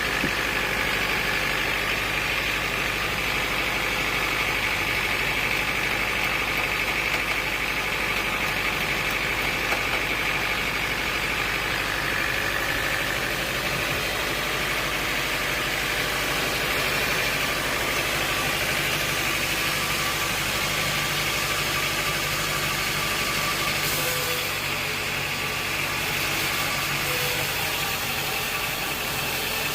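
Sawmill machinery running steadily: a constant mechanical hum with a high whine over it, changing slightly about 24 seconds in.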